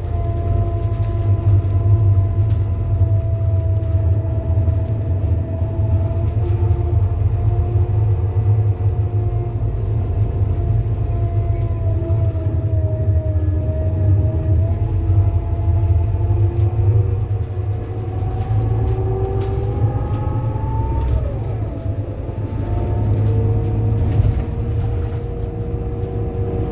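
Scania K230UB bus running under way: a steady low engine rumble with a whine from the ZF Ecomat automatic gearbox and driveline that climbs slowly with speed. About three quarters of the way through, the pitch drops suddenly as the gearbox shifts, then holds steady.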